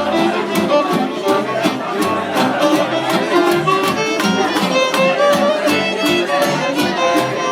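Live band playing an instrumental break with a fiddle carrying the tune over a steady beat.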